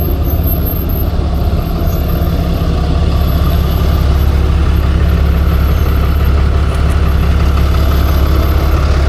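Truck engine running steadily with a deep, even drone.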